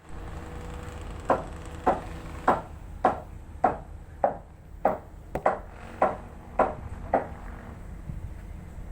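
Hammer blows on wood, about eleven evenly paced strikes a little under two a second, which then stop.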